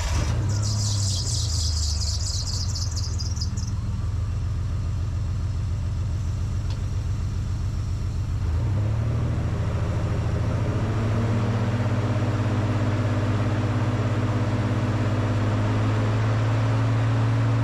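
1997 Mitsubishi Montero's V6 engine idling while intake valve and turbo cleaner is fed into the intake, with a hiss of aerosol spray for the first few seconds. About halfway through the engine speed rises and settles into a steady, higher idle.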